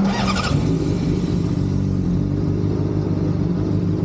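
Vehicle engine idling steadily, with a short hiss near the very start.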